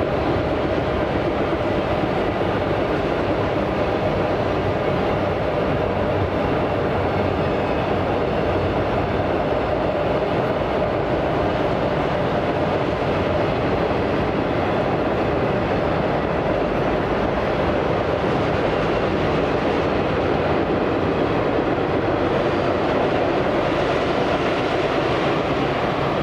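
A train's cars rolling past on the rails in a steady, unbroken rumble.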